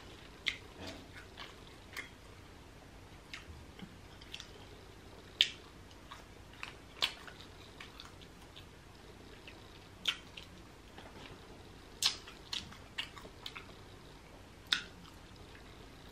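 Close-up chewing and mouth sounds of grilled fish being eaten by hand: short wet clicks and smacks at irregular intervals, roughly one every second or so, with quiet between them.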